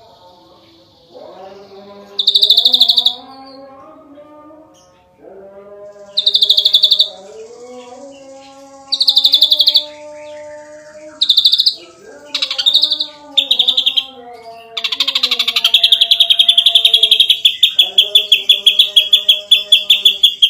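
Ashy drongo singing: loud bursts of very rapid, chattering notes repeated every couple of seconds, then a long rapid rattling run from about three-quarters of the way in, over quieter, lower sliding whistled notes.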